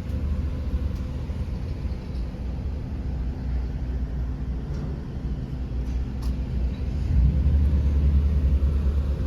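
Car driving, heard from inside the cabin: a steady low rumble of road and engine noise that swells about seven seconds in.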